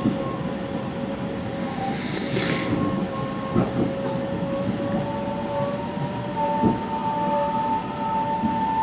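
West Coast Express commuter train running, heard from on board: a steady rumble with a held whine, a second higher whine that steps up partway through, and a few short knocks.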